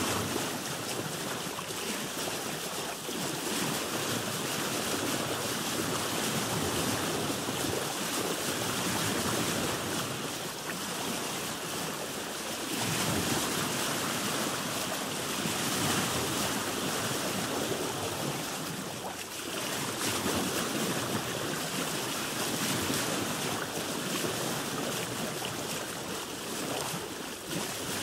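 Sea water washing and slapping against a boat's hull, a continuous rushing that swells and eases every few seconds, with wind on the microphone.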